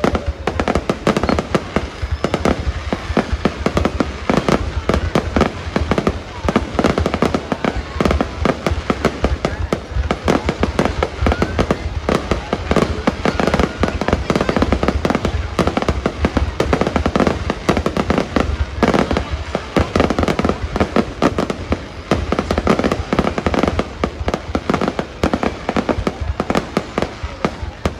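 Aerial fireworks display: a dense, unbroken barrage of bangs and crackles, many per second, over a low rumble.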